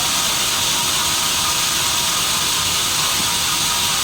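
Sawmill machinery running, a loud steady hiss with no breaks or changes in level.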